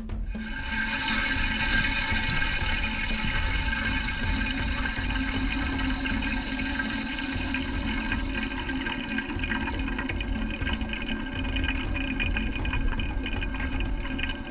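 Danco HydroClean HC660 toilet fill valve refilling the tank, a steady rushing hiss of water that starts suddenly as the supply is opened. The brightest, highest part of the hiss eases off about halfway through as the tank fills.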